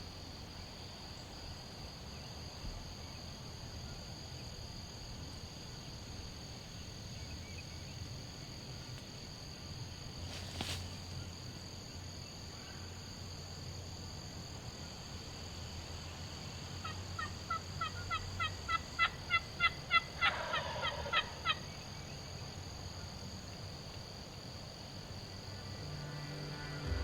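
Wild turkey calling: a series of about a dozen quick yelp notes over roughly four seconds, loudest in the middle of the run, with a lower falling call overlapping near the end. A single faint click comes earlier, over a quiet woodland background.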